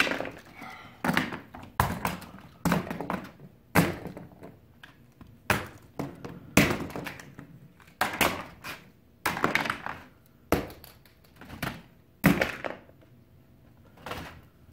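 A series of hollow thunks and knocks, irregular but about one a second, some coming in quick pairs, and none in the last second or so.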